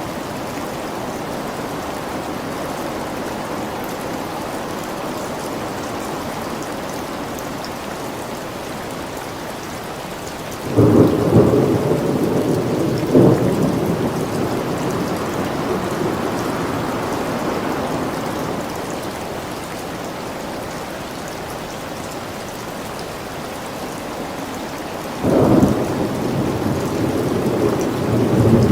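Thunderstorm: steady rain with thunder. A sudden thunderclap comes about a third of the way in, with a second crack a couple of seconds later, rumbling away slowly; another clap breaks near the end.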